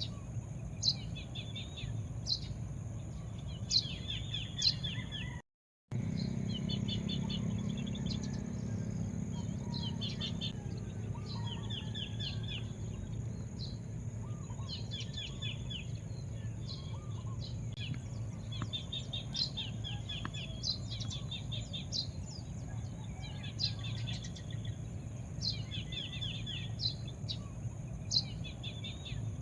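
Wild birds chirping: repeated short trills and sharp high notes, several a second, over a steady low rumble and a thin steady high-pitched tone. The sound cuts out completely for about half a second around five and a half seconds in.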